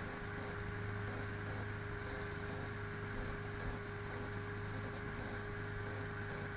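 Motorboat engine running steadily while the boat is underway, an even drone with a steady hum.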